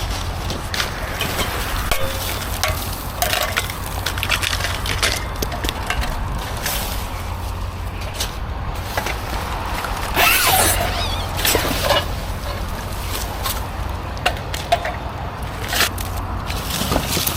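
Junk and scrap being rummaged through and moved: scattered clinks, knocks and rattles of metal and debris, with a louder clattering stretch about ten seconds in, over a steady low rumble.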